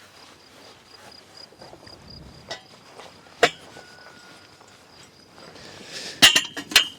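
Sharp clinks and knocks of hard objects: a single hit about three and a half seconds in, then a quick cluster of louder ones near the end, over a faint steady high-pitched tone.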